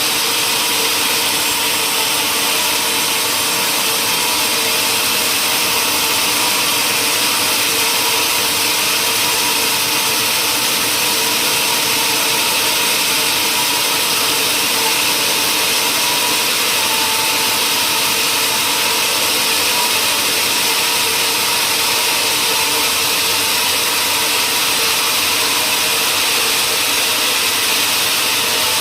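Powered woodworking machinery running steadily, a constant loud hiss over an even hum with no pauses or strikes.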